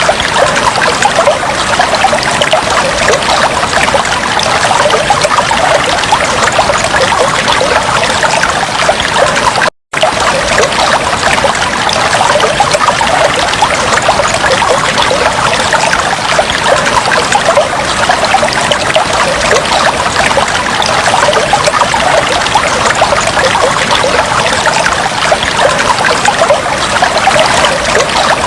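Fish tank water trickling steadily and continuously, with a brief cut-out of the sound about ten seconds in.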